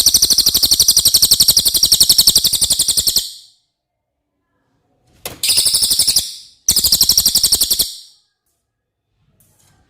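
Cililin songbird singing: a loud, very fast, high-pitched rattling trill lasting about three seconds, then two shorter trills of about a second each a couple of seconds later.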